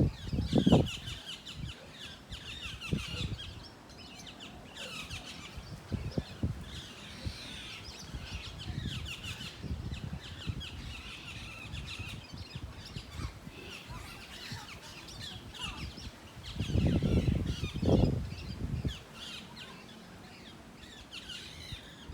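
Many small birds chirping and twittering continuously, short quick calls overlapping. Twice, near the start and again about three-quarters of the way in, a loud low rumble breaks in for a second or two.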